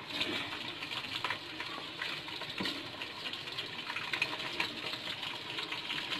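Raw, frozen chicken pieces sizzling and crackling in hot oil with onions in a steel karahi, with a few soft knocks as more pieces are laid into the pan.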